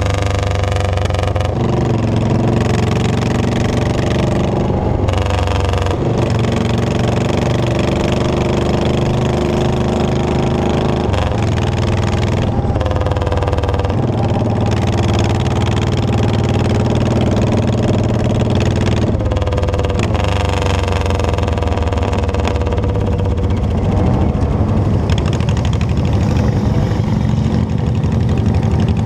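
Motorcycle engine running under way, its pitch holding steady for a few seconds at a time and then shifting up or down as the bike changes speed and gear.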